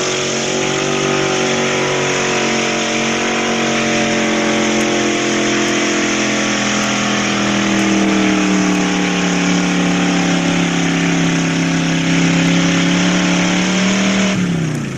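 Two-wheel-drive pickup truck engine running at high revs under heavy load during a truck pull. The pitch holds high with slight wavering, then drops sharply near the end as the throttle is let off.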